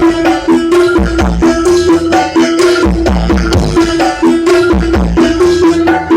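Loud dance music played through a large horeg carnival sound system. Deep bass thumps land about once a second under a held tone, with hand-drum hits that drop in pitch.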